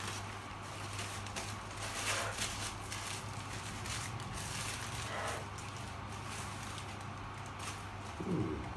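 Paper wrapping rustling and crinkling in short bursts as a potted plant is unwrapped by hand, over a steady low hum.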